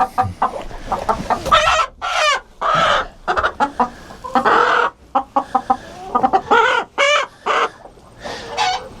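Chickens clucking: runs of short, quick clucks mixed with several longer, wavering calls.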